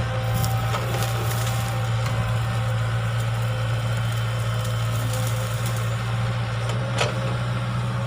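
Excavator's diesel engine running steadily at an even pitch, with a few light clicks and one sharper knock about seven seconds in.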